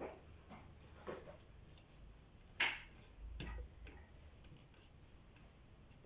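A few irregular light clicks and taps, the loudest about two and a half seconds in, followed shortly by a brief low thump.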